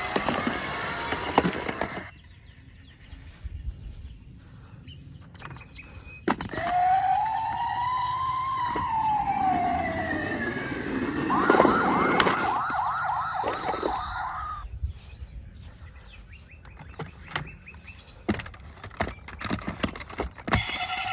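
A toy car's electronic siren: one slow rise-and-fall wail, then a fast warbling yelp for a few seconds, with scattered clicks and knocks of plastic toys being handled before and after.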